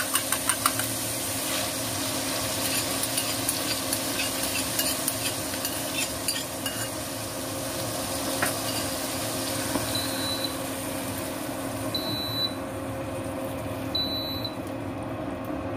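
Beaten egg frying in hot oil in a wok with beef strips: a steady sizzle, with sharp crackles in the first second as the egg hits the oil. About ten seconds in, a short high electronic beep starts repeating about every two seconds.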